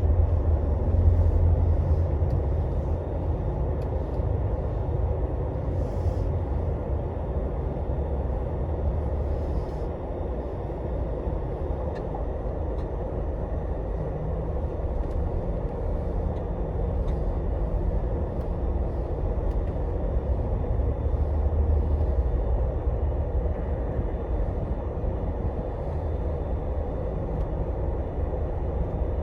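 Scania Astromega double-decker highway bus running along the road, heard from inside: a steady low rumble of engine and road noise, with a few faint ticks and rattles.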